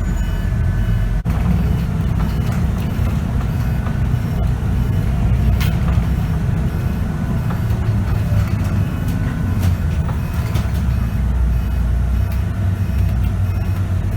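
Scania K94UB city bus running under way, heard from on board: a steady low engine drone, with one sharp click about six seconds in.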